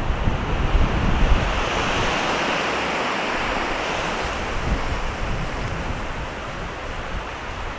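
Strong mountain wind rushing through trees, a gust swelling and then slowly easing, with wind buffeting the microphone in a deep rumble during the first second or so.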